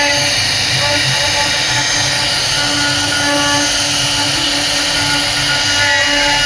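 CNC router spindle running steadily, its bit cutting a wood carving, with a steady high-pitched whine over a rougher lower hum.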